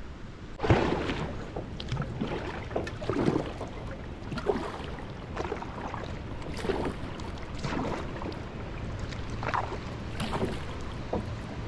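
Kayak paddling: irregular splashes of the paddle blades in the water, roughly one a second, over the hiss of moving water.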